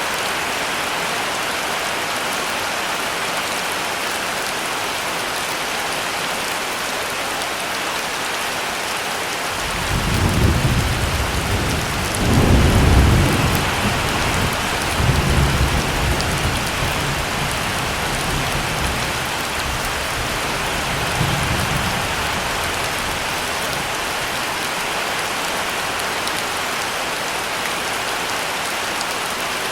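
Heavy rain falling steadily. About a third of the way in, a roll of thunder starts: a deep rumble that swells twice, then rolls on more softly and dies away after about twelve seconds.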